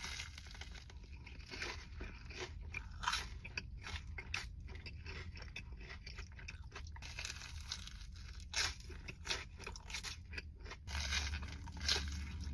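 A person chewing a crispy fried Korean corn dog close to the microphone: a rapid, uneven run of crisp crunches, with a few louder crunching bites along the way.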